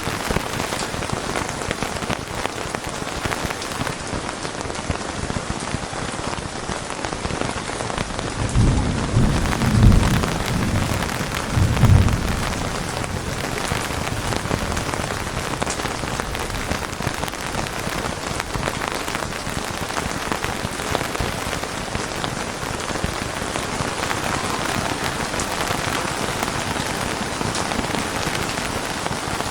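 Steady heavy rain falling on a surface, with a low rumble of thunder swelling twice about a third of the way in.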